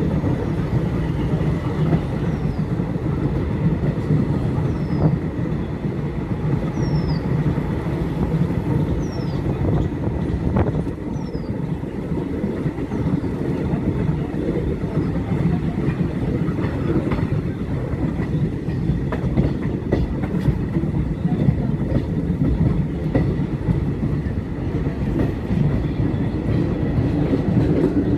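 Passenger train running, heard from on board: a steady rumble with wheel and rail clatter. In the first half, short high falling chirps recur about every two seconds.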